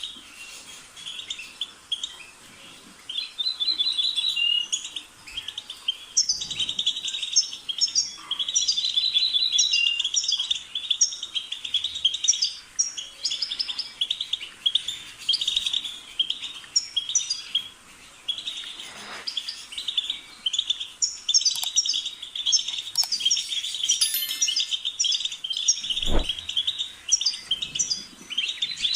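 European goldfinch singing: long runs of rapid, liquid twittering and tinkling notes, broken by a few short pauses. There is a single low thump near the end.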